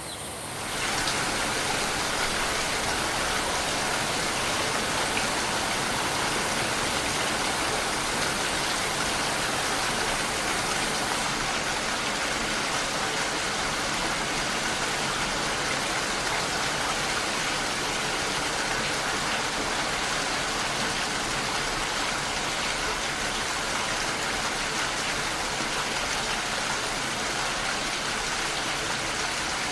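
Steady rain, an even hiss of falling drops with no distinct events. It swells louder about a second in.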